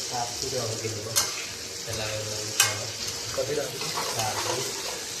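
Food sizzling in a hot pan as it is stirred, with a steady frying hiss. A utensil clicks sharply against the pan twice, about one and two and a half seconds in.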